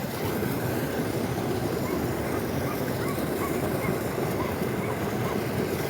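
Steady rush of flowing water, with faint short high calls over it.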